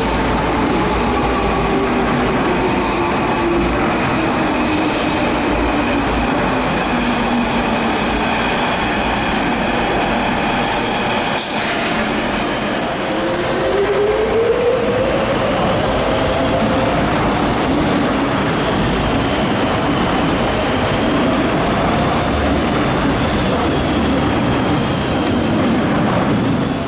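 Docklands Light Railway electric trains running through a station, with continuous wheel-on-rail and running noise. A motor whine falls in pitch over the first several seconds as a train slows. From about 13 seconds in, another whine rises as a train pulls away.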